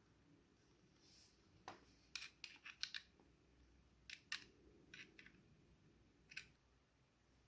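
A scattered series of about a dozen small, sharp clicks and snips, in two quick clusters and a last single click, like small tools or parts being handled.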